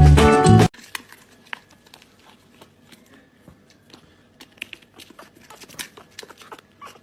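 Music cuts off suddenly under a second in, followed by faint scattered clicks and crinkling rustles in a small quiet room.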